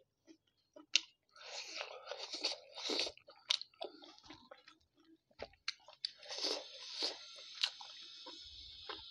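Close-miked chewing of a steamed chicken momo: irregular wet mouth sounds and smacks with sharp little clicks. Near the end come a few light knocks as a spoon is moved in a ceramic soup bowl.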